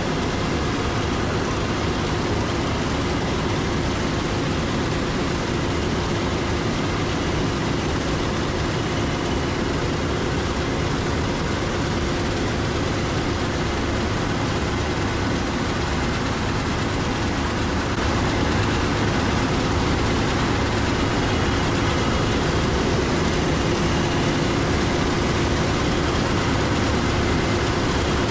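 Large diesel harvest machinery running steadily: a continuous engine drone with a steady hum over it, rising slightly in level about two-thirds of the way through.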